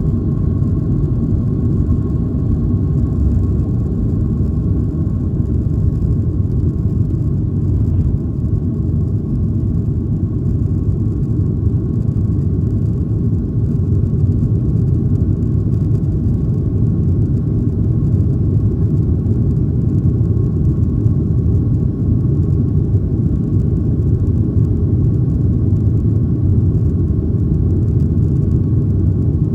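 Steady low rumble inside the cabin of a Boeing 737-800, from its engines and airflow, with a faint steady tone riding above it.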